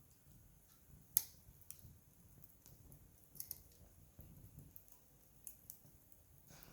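Wood campfire crackling: scattered sharp pops and snaps at irregular intervals, the loudest about a second in.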